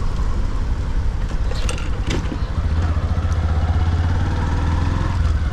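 Motorcycle engine running while being ridden, with wind noise on the microphone. A few light clicks come in the first half, and the low engine hum grows stronger about halfway through.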